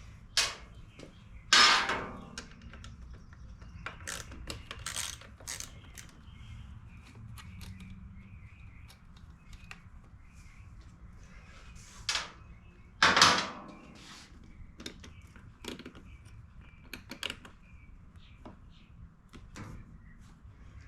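Hand tools and small metal parts clicking and clinking while a small generator is taken apart. Two pairs of louder clanks, one near the start and one about twelve seconds in, stand out over the lighter tapping.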